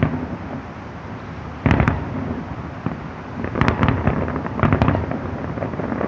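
Aerial fireworks shells bursting: a bang about a second and a half in, a quick cluster of bangs near the middle and another just before the end, with crackling in between.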